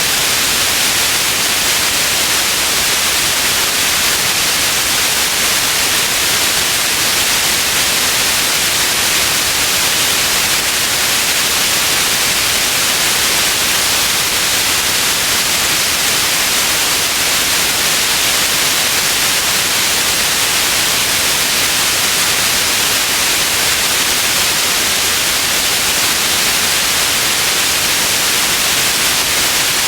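Steady white noise, an even unchanging hiss that is strongest in the upper range and thinner in the low end.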